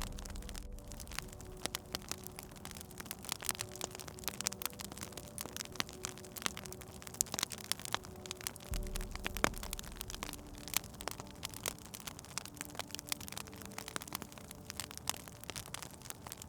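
Wood fire crackling in a fireplace: frequent sharp pops and snaps over a soft hiss, with faint low held tones underneath.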